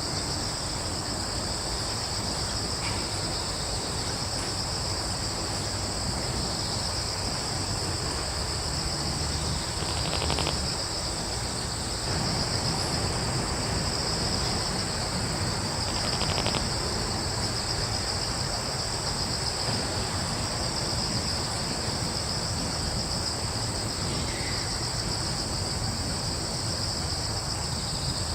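Crickets chirring steadily in a continuous high-pitched drone, over a low steady rumble of background noise. Two brief louder sounds come about ten and sixteen seconds in.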